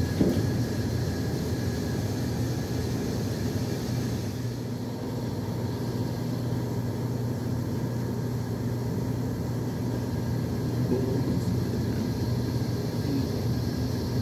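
Manila LRT Line 1 light-rail train running across a river bridge at a distance, heard as a steady rumble under a constant mechanical hum.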